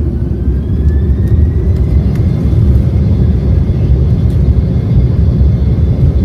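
Embraer 190's GE CF34 turbofan engines spooling up for the takeoff roll: a whine rises in pitch over the first two seconds and then holds steady, above a loud, heavy rumble.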